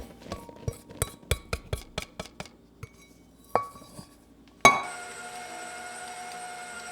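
Glassware clinking in a quick run of light, ringing taps, about four a second, then a louder clink. A little past halfway a sharp knock, and a small machine starts running with a steady hum and a thin whine.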